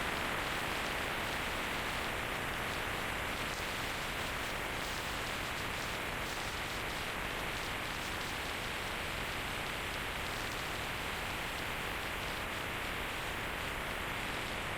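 Steady rushing wind noise on a motorcycle rider's microphone while riding, an even hiss with no engine note standing out.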